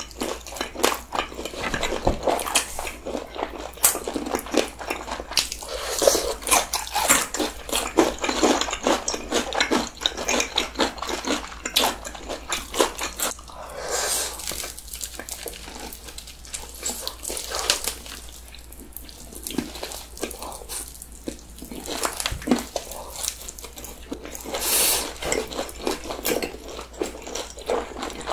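Close-miked eating of seasoned fried chicken by two people: a dense run of sharp crunching bites and chewing clicks mixed with wet mouth sounds, thinning out for a stretch in the middle.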